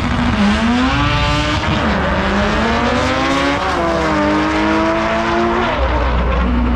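Drag-racing car accelerating hard down the strip. The engine climbs in pitch and falls back at each upshift, three times about two seconds apart.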